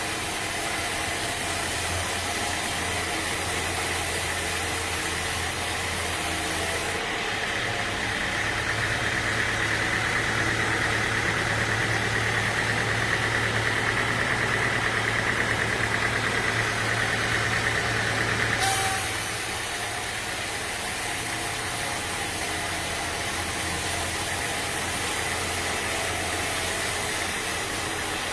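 Sawmill machinery running: a steady engine hum with a high whine. The whine grows louder from about seven seconds in, then drops off abruptly about nineteen seconds in.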